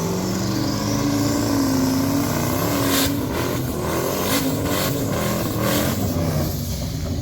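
Drag car engine revving hard under acceleration, its pitch climbing over the first couple of seconds. A run of sharp cracks follows about three to six seconds in.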